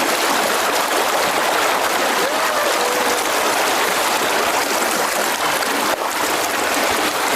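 Fast river current rushing steadily over rocks: a loud, even rush of flowing water.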